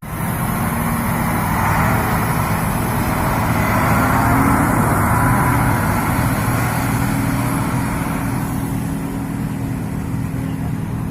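Motor vehicle engine running, its sound swelling to a peak about four seconds in and then slowly fading, as a vehicle passing by.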